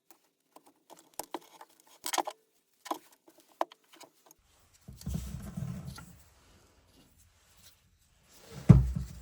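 Scattered light clicks and knocks, then a low rumbling noise about halfway through and one heavy thump near the end.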